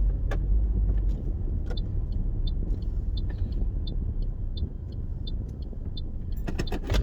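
Car interior: low engine and road rumble that eases about a second in as the car slows, with the turn-signal indicator ticking steadily, about one and a half ticks a second. A few sharp clicks near the end.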